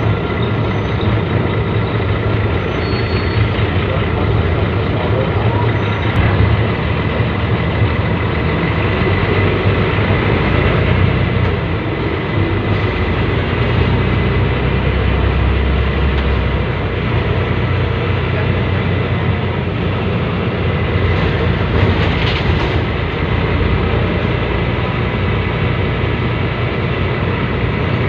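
Scania L113CRL city bus's 11-litre straight-six diesel engine running steadily, a louder-than-average engine, with a deeper rumble for a few seconds past the middle and a brief hiss about three-quarters of the way through.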